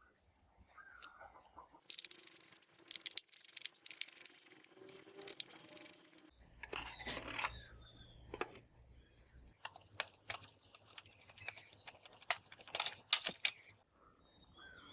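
Scattered clicks, taps and scrapes of hands and tools working on a Sony CFS-W350S radio cassette recorder. A low hum joins in about six seconds in.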